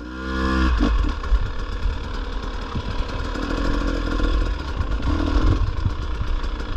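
Dirt bike engine starting right away, with a short rising run-up of pitch in the first second, then settling into a steady run. It is the restart after the bike was dropped and lifted back up.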